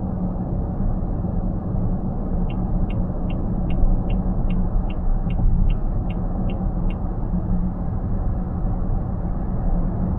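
Steady tyre and road rumble inside a car cabin at highway speed. In the middle comes a run of about a dozen short, high electronic ticks from the car, evenly spaced at roughly two and a half a second.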